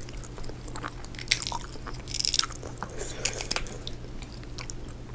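Eating close to the microphone: biting and chewing seafood, with sharp crackling clicks in clusters about a second in, around two seconds in, and again past three seconds.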